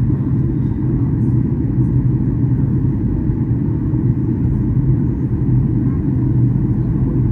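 Steady low cabin rumble of a Boeing 737-800 airliner, the drone of its CFM56 engines and the airframe heard from inside the passenger cabin, with an even hum underneath.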